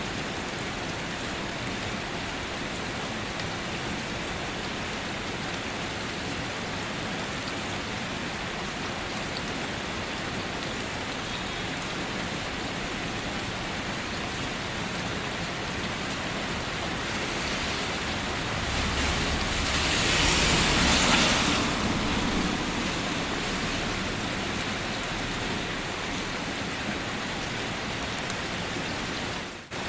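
Steady rain falling. About two-thirds of the way through the sound swells for a few seconds, with a low rumble under it, then fades back to the steady rain; just before the end it drops out for a moment.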